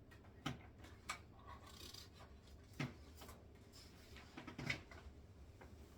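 A few short clicks and knocks with a faint rustle, small handling noises over a low steady room hum.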